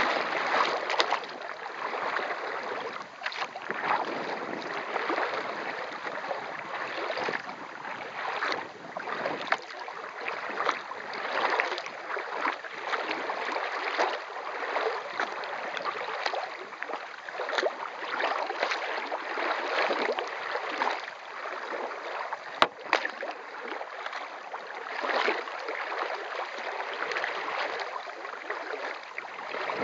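Kayak under way: paddle strokes and water splashing and lapping against the hull, swelling and ebbing about once a second, with one sharp click about three-quarters of the way through.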